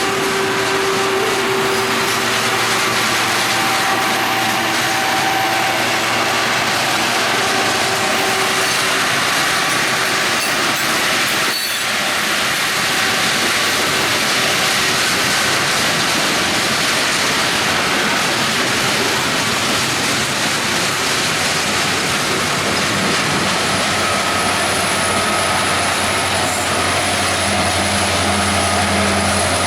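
Freight train cars rolling past, a steady loud rumble of steel wheels on rail with faint wheel squeal. A low steady hum comes in near the end.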